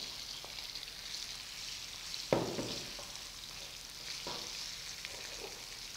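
Boiled potato pieces frying in hot ghee with spices, a steady sizzle, while a wooden spatula stirs them in the pan. A sharp knock about two seconds in, and a few fainter knocks later.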